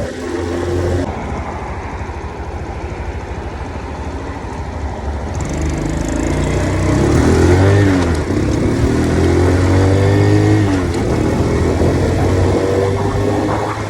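Grom-clone mini motorcycle's engine running on the move. From about six seconds in it revs up in rising pitch sweeps that drop back as it shifts, then accelerates again.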